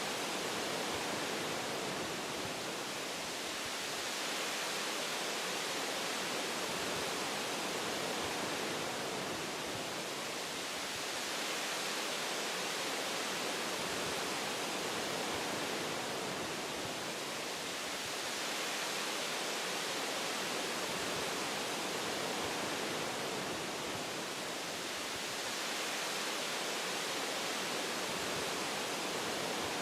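Wind blowing through forest tree branches, a steady rushing hiss that swells and eases every several seconds.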